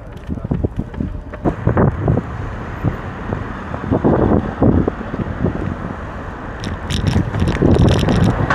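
Wind buffeting the microphone of a camera riding on a moving e-bike, in uneven gusts, with a brief patter of small clicks and rattles near the end.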